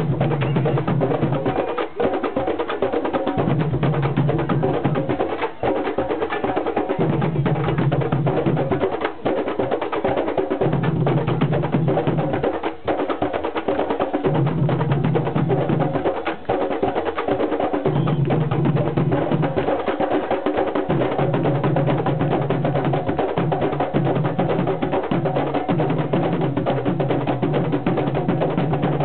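Percussion music with drums and sharp wood-block-like clacks, over a low note that returns in a regular pattern about every three and a half seconds.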